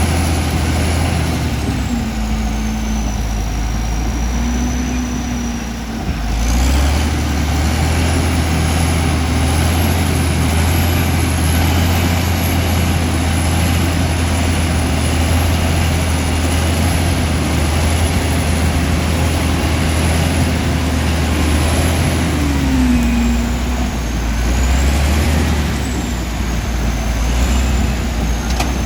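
Komatsu D65E bulldozer's diesel engine running hard, with a high whine that wavers in pitch above it. The engine note steps up and gets louder about six seconds in, and dips briefly a little past two-thirds of the way through.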